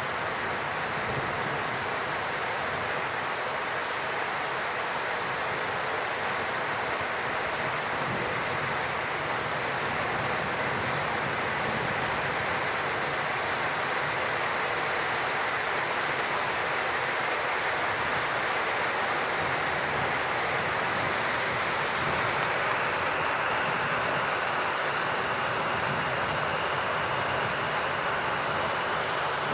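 Steady heavy rain falling and running, a dense even hiss of water.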